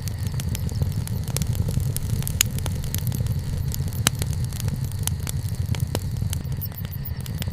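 Wood fire (bonfire) crackling, with irregular sharp pops and snaps from the burning wood over a steady low rumble.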